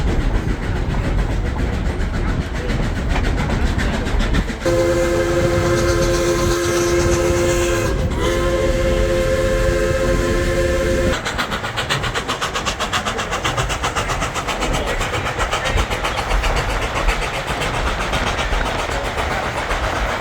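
Durango & Silverton narrow-gauge steam locomotive's whistle sounding a chord of several tones in two long blasts, starting about five seconds in, with a brief break near the middle, over the steady rumble and clatter of the train running on the rails.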